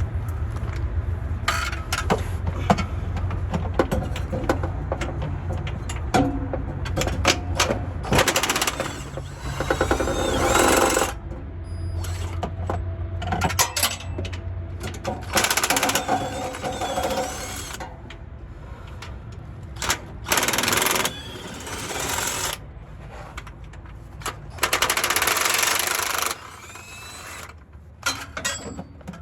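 Power impact wrench hammering in bursts of one to two seconds, four times, loosening bolts, with sharp metal clicks and clanks in between.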